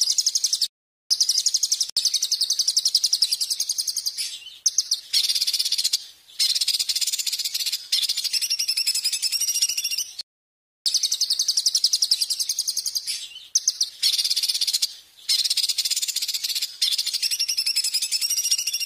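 A songbird's loud, rapid, high-pitched song: fast trills and strings of sharp repeated notes in phrases a few seconds long, broken by short pauses. It is a shrill, aggressive 'ganyangan' style of song of the kind used as tutor song for cage birds.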